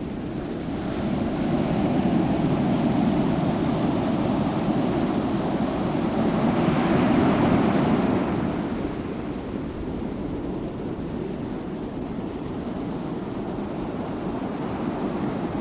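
Sea waves washing onto the shore: a rush of surf that swells from about two seconds in, peaks around seven seconds, then eases back to a lower, steady wash.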